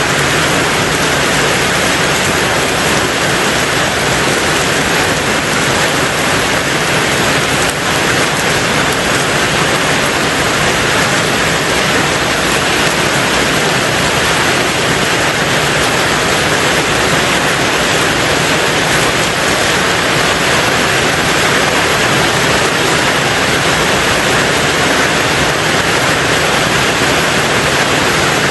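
Rain falling steadily on a tin roof: a dense, even hiss with no breaks or single drops standing out.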